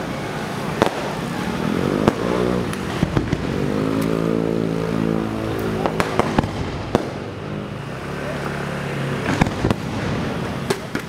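Aerial fireworks going off: a continuous hiss and crackle from rising rockets and burning shells, broken by sharp bangs at irregular intervals. A drawn-out wavering tone runs through the middle.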